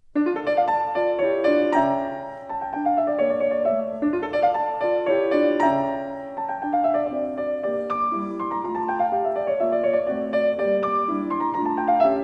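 Piano music: a flowing melody of struck notes over lower accompanying notes.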